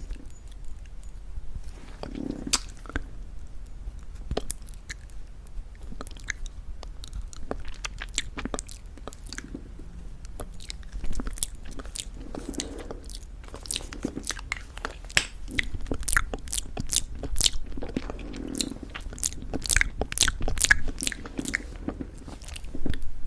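Close-miked chewing of plum Happy Jelly, a chewy candy with a crunchy sugar coating: crisp crackles and wet mouth clicks, coming thicker and louder in the second half.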